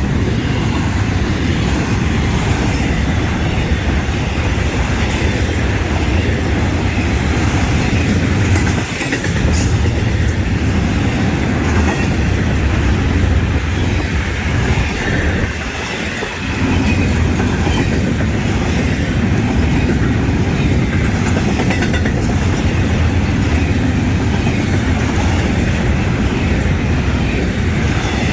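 Florida East Coast Railway freight train rolling past at very close range, a steady loud rumble of the passing train. The noise dips briefly twice, about 9 and 16 seconds in.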